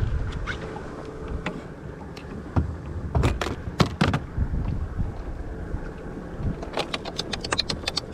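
Wind rumbling on the microphone, with scattered sharp clicks and knocks of gear being handled: a few loud ones a little after three seconds and around four seconds, and a quick run of clicks near the end.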